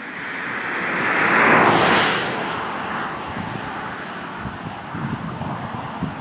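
A road vehicle passing by: tyre and engine noise swells to a peak about a second and a half in, then slowly fades away.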